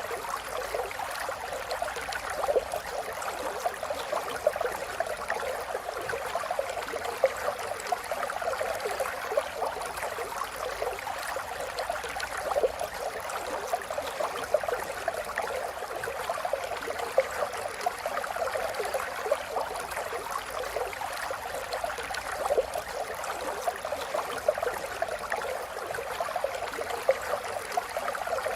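River water flowing and babbling over stones, a steady rush with many small splashes and gurgles.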